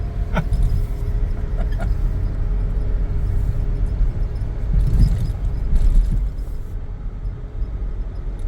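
Mitsubishi Pajero crawling in low range over a rough dirt forest track: a steady low engine and tyre rumble with short knocks and jolts as it crosses bumps, loudest about five seconds in.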